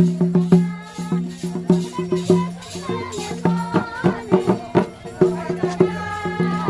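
Folk music with a drum struck in quick repeated strokes on a low ringing note, a rattle or shaker, and a melodic line above it.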